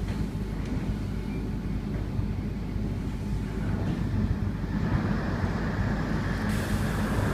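Steady low rumble of a moving train heard from inside the carriage, growing a little louder and hissier about five seconds in.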